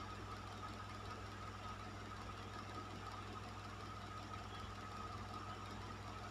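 Electric fan running steadily: a constant low motor hum with a faint high whine over an even rush of air.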